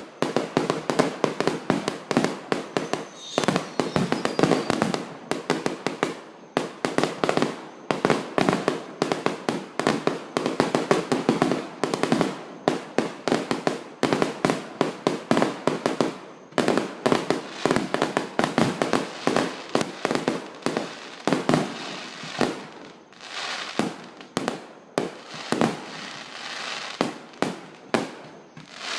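Fireworks display: a dense, rapid barrage of bangs and crackling, with a few short lulls.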